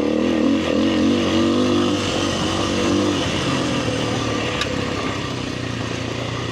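Kawasaki KLX300R dirt bike's single-cylinder four-stroke engine running on the trail, its pitch rising and falling with the throttle for the first few seconds, then settling lower and steadier.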